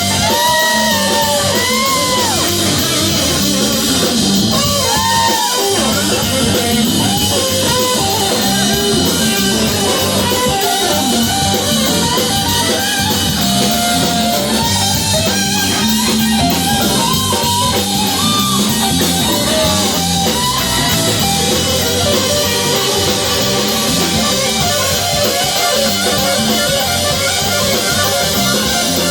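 A live rock band playing, with electric guitar leads over bass and drum kit.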